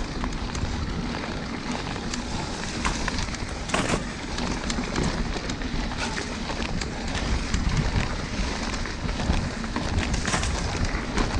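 Wind rushing over the microphone and a rough rumble from riding fast over a bumpy dirt trail, with scattered clicks and rattling knocks from bumps, a harder knock about four seconds in and another near the end.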